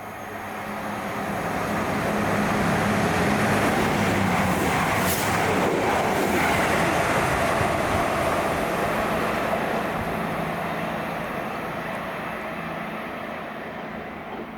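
Fast passenger train passing at speed: it grows louder over the first few seconds, stays loud for about five seconds with a steady low hum under the rushing noise, then slowly fades away.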